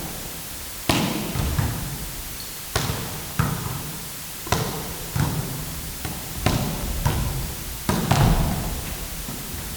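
Balls bouncing on an indoor court floor during sports practice: irregular thuds roughly every half second to a second, each ringing in the hall.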